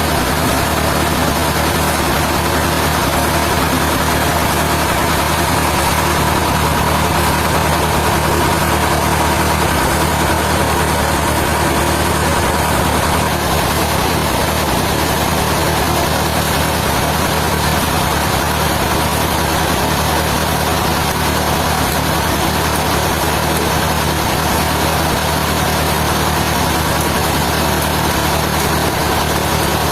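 Sawmill machinery running steadily: an engine-like hum with a constant higher whine and no cutting strokes or changes in speed.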